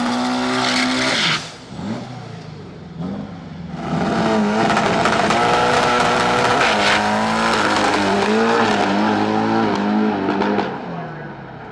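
Drag race car engine held at high revs, cutting off about a second in. About four seconds in it comes back, held high with a few small steps in pitch, and dies away near the end.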